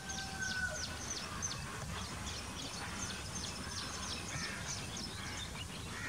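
Birds chirping: a long run of short, high, falling chirps, several a second, over low steady background noise, with a thin held whistle in the first second.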